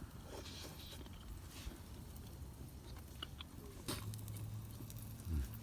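Person chewing a mouthful of grilled food, with faint scattered clicks.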